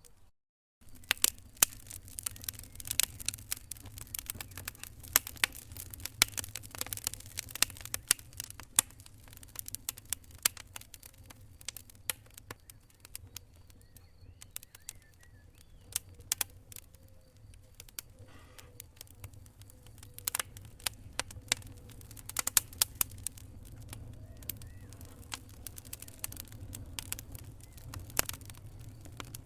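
Wood fire in a fireplace crackling, with irregular sharp pops and snaps of varied loudness over a low, steady rumble. The sound cuts out briefly about half a second in.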